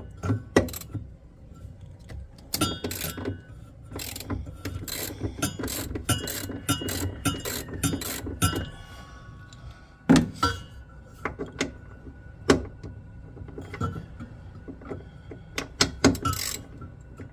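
Hand tools working on a washing machine's metal and plastic parts during a belt replacement: irregular clicks, rattles and clanks, busiest in the first half, with a sharp knock about ten seconds in.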